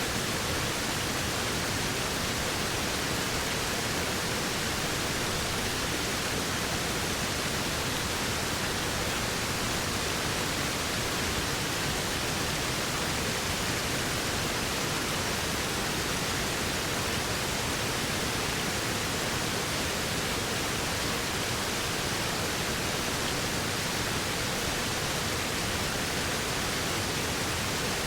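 Waterfall: a steady, unbroken rush of falling water spread evenly from low rumble to high hiss, with no changes or separate splashes.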